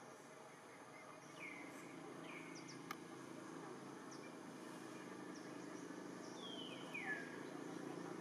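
Two pairs of short, falling bird calls, about a second and a half in and again near seven seconds, with a single sharp click at about three seconds. Under them is a faint low hum of distant traffic that grows slowly louder.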